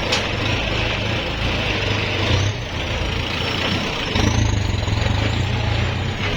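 Kubota L5018 tractor's diesel engine running, its revs rising briefly about two and a half seconds in and again from about four seconds on. A faint high whine slides up and down in pitch above it.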